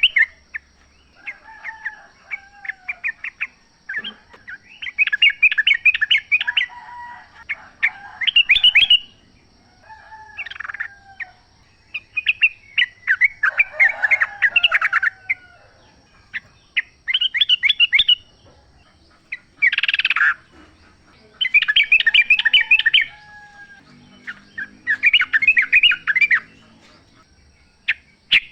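Wild yellow-vented bulbuls singing: repeated short phrases of quick bubbling, chattering notes, about a dozen of them with short gaps between, some with lower sliding notes underneath.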